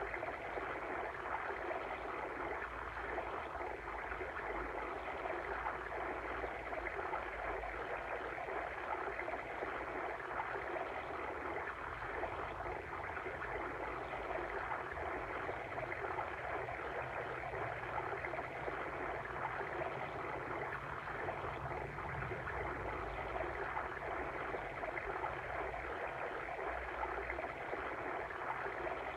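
Stream water flowing and gurgling in a steady, even rush that never lets up.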